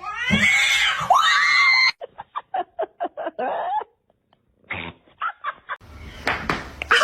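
Cats meowing: two loud, drawn-out meows that rise and fall in pitch, then a quick run of short, clipped calls.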